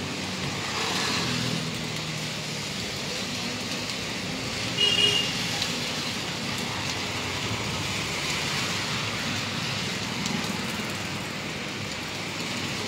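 Heavy rain falling on a wet street, a steady hiss, with traffic passing through the water. About five seconds in a vehicle horn gives a short toot.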